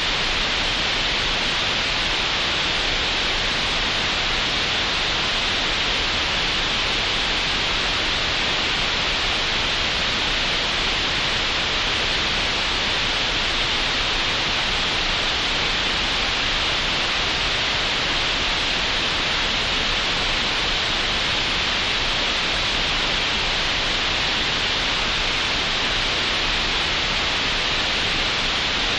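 Synthesized green noise, generated in Audacity: a steady, unchanging hiss, strongest in the upper-middle range and with nothing above it at the top end.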